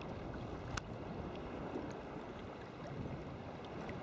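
Wind buffeting the microphone and sea water sloshing against a sea kayak, with one small click about a second in.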